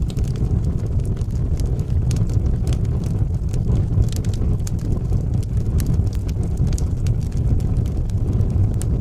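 Fire burning in a fireplace: a steady low roar of the flames with frequent scattered sharp crackles and pops.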